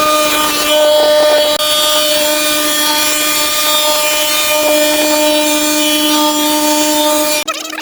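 A motor-driven power tool running steadily, a constant whine over a rasping hiss, which cuts off abruptly near the end.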